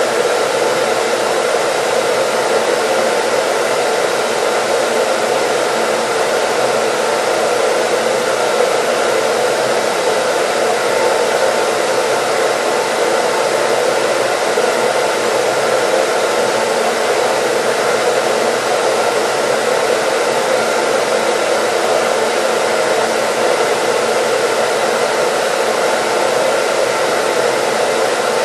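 Hair dryer running steadily, a constant whooshing rush of air with a faint motor hum, played as white noise.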